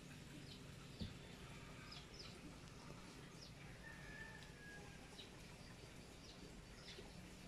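Faint, scattered short bird chirps over a low steady background rumble, with one soft knock about a second in.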